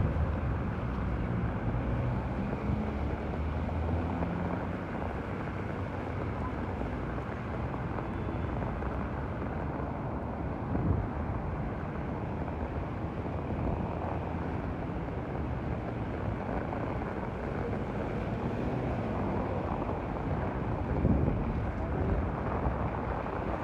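Heavy rain falling steadily, a continuous even wash of noise with a low rumble of wind on the microphone underneath.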